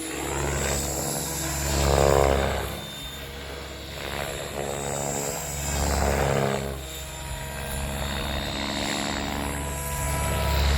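XL Power 550 electric RC helicopter flying 3D aerobatics: a steady rotor and motor whine that swells louder and falls back three times as the heli manoeuvres.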